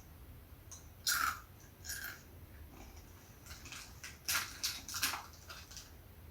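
Crunchy snack being bitten and chewed: a sharp crunch about a second in, another at two seconds, then a quick run of crunches in the second half.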